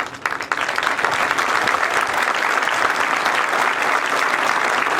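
Audience applauding, the clapping swelling within the first second and then holding steady.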